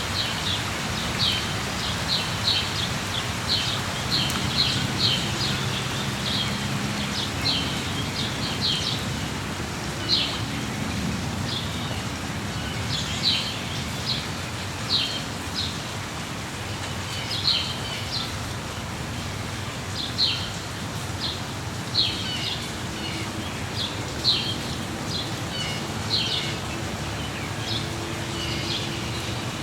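Steady rain in a rain forest, with a bird giving short high chirps over it every second or two.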